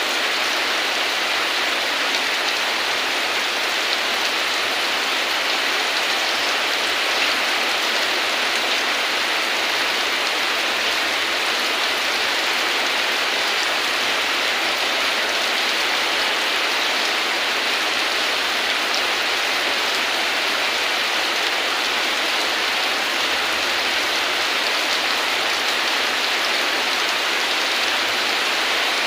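Steady heavy rain: an even hiss of rain falling on a surface, with no thunder.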